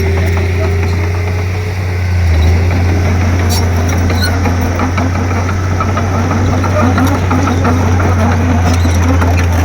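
Komatsu D31P bulldozer's diesel engine running with a steady low drone, with a few sharp clicks.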